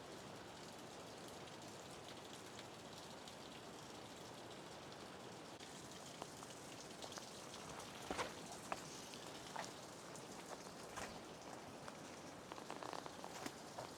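A steady, rain-like hiss, with scattered crackles and snaps of twigs and dry leaf litter from about six seconds in, as a hiker pushes through scrub on foot.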